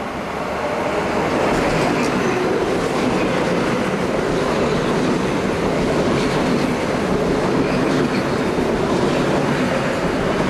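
Metro-North commuter train passing the platform at speed: a steady rush of wheels on rail that builds over the first second and then holds, with a few clicks of wheels over the rail joints.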